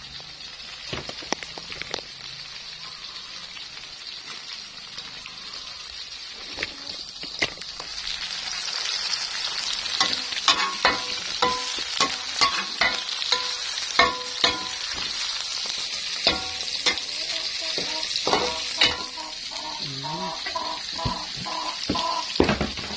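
Salted fish and a chilli-and-shallot spice paste sizzling in hot oil in a wok, stirred with a spatula. The sizzle grows louder about eight seconds in. From about ten seconds on the spatula knocks against the wok in repeated ringing clinks, about one or two a second.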